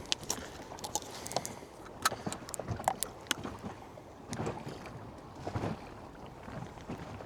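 Water slapping against a small boat's hull at anchor, with scattered small clicks and knocks on board.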